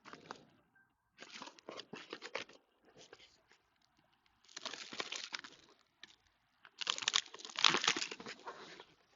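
Handling noise as a mini PC is taken apart by hand: three spells of crinkling, rustling and scraping, the longest and loudest near the end.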